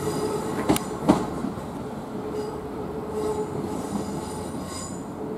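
Class 387 Electrostar electric multiple unit pulling away over curved pointwork. The wheels clunk twice over the rail joints about a second in, over a steady tonal whine from the wheels on the curve.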